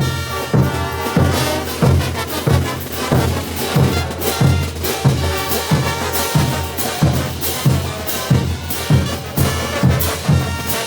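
Bolivian brass band playing: massed trumpets and low brass over drums, with a steady beat of about two strikes a second.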